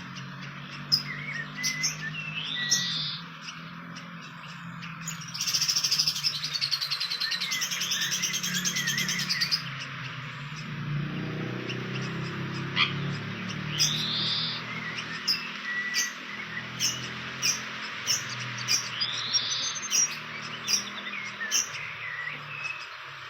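Wild birds calling: short arched whistled notes repeated every few seconds, with many sharp chip notes, over a low steady hum. A few seconds in, a loud buzz runs for about four seconds.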